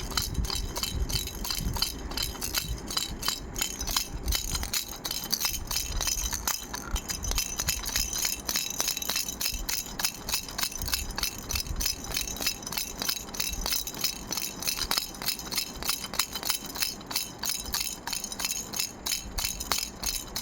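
A frog-shaped baby rattle being shaken over and over: steady, rhythmic clicking and jingling with a bright, high rattle.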